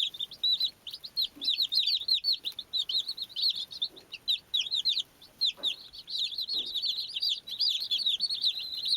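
A group of baby chicks peeping continuously, many short high overlapping chirps several per second.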